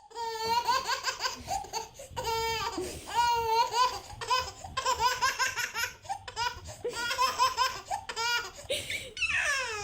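A baby laughing in repeated high-pitched bursts of giggles, with a falling squeal near the end.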